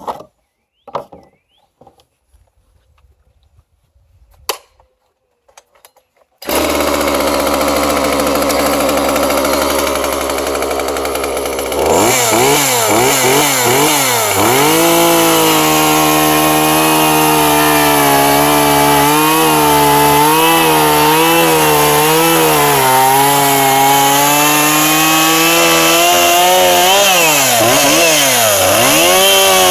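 A few knocks, then about six seconds in a freshly rebuilt Husqvarna 137 two-stroke chainsaw starts and keeps running loud at high revs. Its pitch wavers and dips as it is loaded, typical of the saw cutting into a log.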